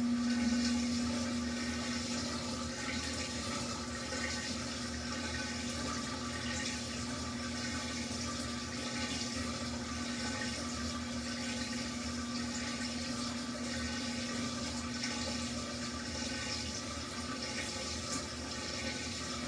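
Samsung washing machine mid-cycle, moving water: a steady hum with water rushing through it.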